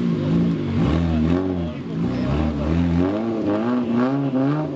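Off-road competition 4x4's engine revving up and down repeatedly, the pitch rising and falling about every half second under bursts of throttle.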